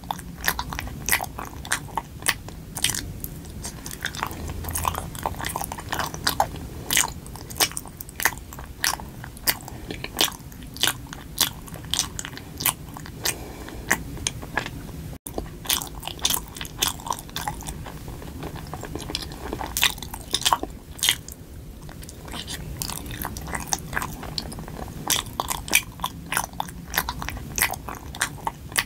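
Close-up eating of a soft red-bean-filled rice cake: biting and chewing, heard as a dense run of sharp mouth clicks and smacks.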